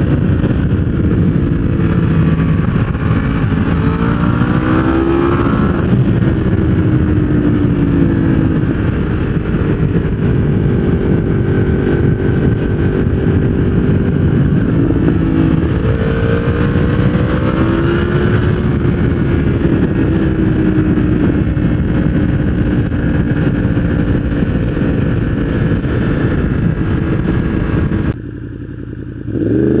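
Yamaha R1 inline-four engine running through a full aftermarket exhaust system, loud, its pitch rising and falling with the throttle several times. Near the end it drops off briefly, then rises sharply again.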